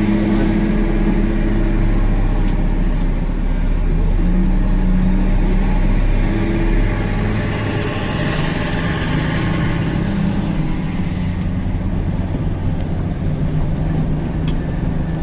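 Dump truck's engine running steadily, its pitch stepping up and down a few times as the revs change.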